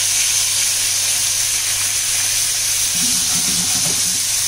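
Cornflour-coated thin chicken slices shallow-frying in hot oil over high heat, sizzling with a steady hiss.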